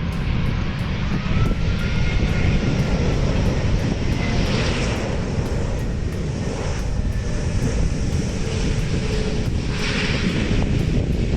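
Four-engined Airbus A380 on its landing, jet engines sounding as a loud, steady low rumble with a faint whining tone that rises and falls.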